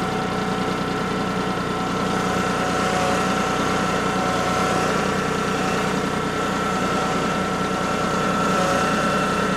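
Farm tractor engine running steadily with the throttle raised a little.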